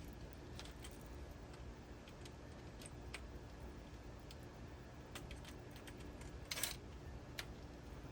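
Scattered light metallic clicks and taps of a screwdriver and small metal parts on the pool pump motor's wiring terminals, with one louder clatter about six and a half seconds in.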